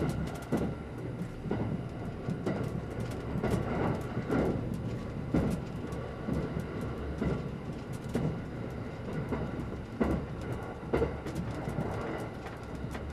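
Interior running noise of a limited express electric train: a steady low rumble from the wheels and running gear, broken by sharp clacks at irregular intervals from the wheels passing over the track.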